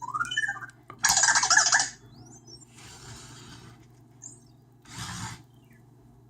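Anki Vector robot making its chirping electronic sounds: quick rising chirps at the start, then a loud burst of chirping noise about a second in, followed by softer whirring noises.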